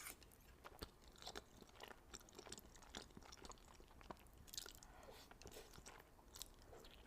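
A person chewing food close to the microphone: faint, irregular wet mouth clicks and soft crunches.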